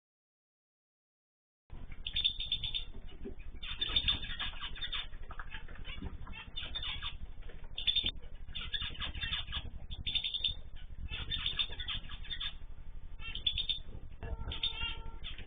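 Silence for under two seconds, then many small cage birds chirping and calling in quick repeated bursts.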